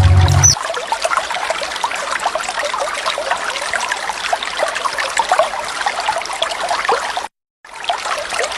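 Waterfall water splashing and trickling, a steady rush of many small splashes. A loud low-pitched sound stops about half a second in, and the water cuts out completely for a moment about seven seconds in.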